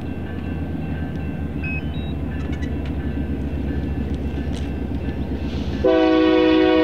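Diesel locomotives of a Union Pacific intermodal train running with a steady low rumble, then the locomotive's air horn sounding a loud chord of several notes about six seconds in.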